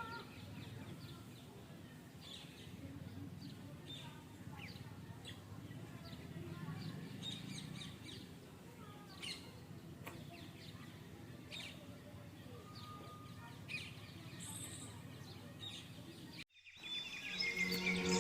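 Pet budgie giving scattered short, faint chirps over a low background hiss. Music fades in near the end.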